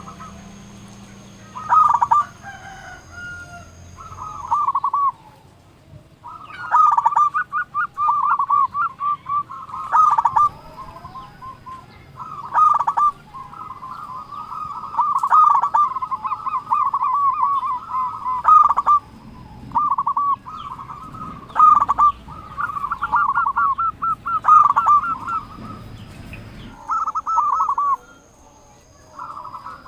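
Zebra dove (perkutut) cooing: repeated phrases of rapid, stuttering coo notes, each a second to a few seconds long, with short pauses between.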